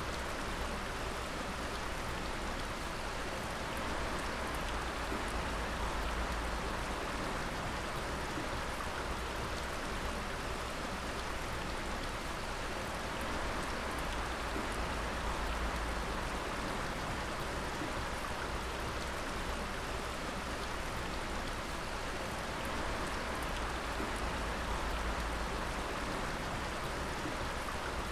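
Water dripping and splashing in a dense, steady patter.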